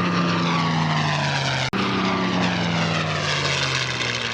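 WWII piston-engine propeller fighter flying past at an air show, its engine note falling in pitch as it goes by. About a second and a half in, the sound cuts out for an instant and the engine picks up again, still falling in pitch.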